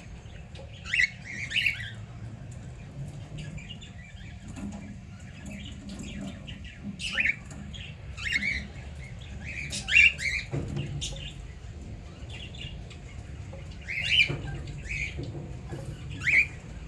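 Cockatiels giving short chirping calls, about seven scattered calls spaced one to four seconds apart, over a steady low hum.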